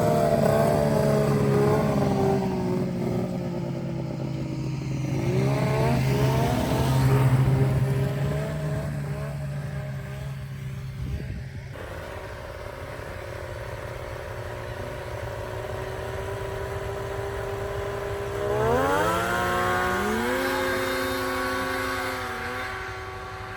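Two-stroke snowmobile engines racing at high revs. The pitch slides down over the first few seconds, then climbs steeply about three quarters of the way through and holds high.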